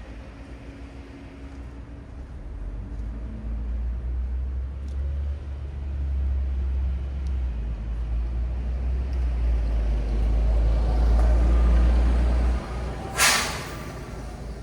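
Heavy vehicle's engine rumbling as it draws near and grows louder, dropping off suddenly, then a short loud hiss of air brakes about a second later.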